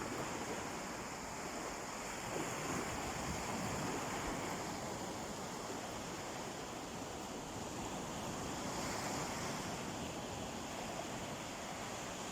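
Calm sea surf washing on a beach: a steady wash of small waves rising and falling gently in loudness.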